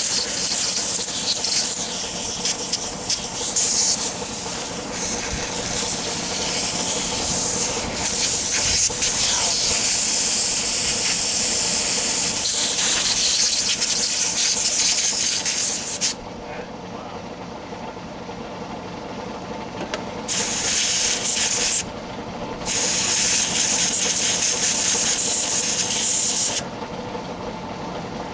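Loud steady hiss that cuts out and comes back several times, over a steady mechanical hum.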